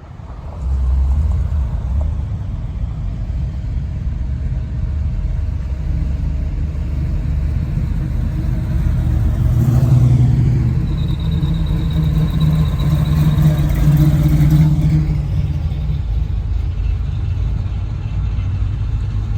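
A car engine running close by with a low rumble. About ten seconds in, its note rises and holds, then drops back about fifteen seconds in.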